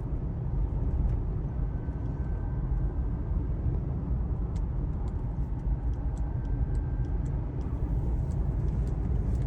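A car driving, a steady low rumble of road and engine noise, with a few faint light ticks in the second half.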